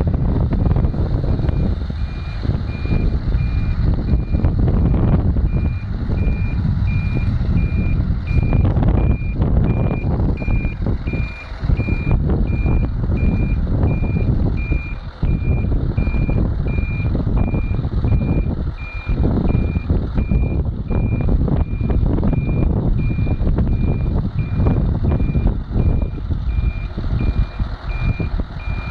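Scania 500 hp truck reversing: its reverse alarm beeps at a steady, even rhythm over the loud running of the diesel engine.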